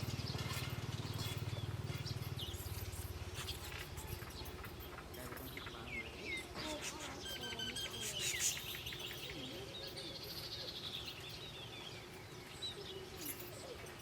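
Small wild birds chirping and twittering in short, scattered high calls, with a low hum under the first couple of seconds.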